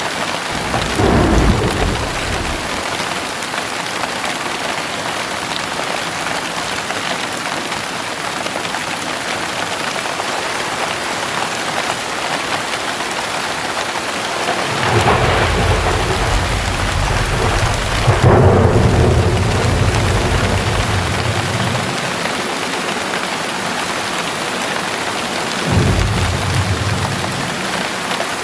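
Heavy rain falling steadily, with thunder rumbling: a short roll about a second in, a long rumble from about halfway through that is loudest a little after it starts, and a brief roll near the end.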